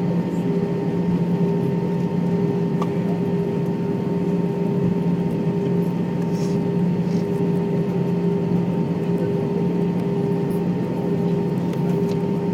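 Steady airliner cabin noise: a constant drone with a few steady humming tones running under it, and a few faint ticks.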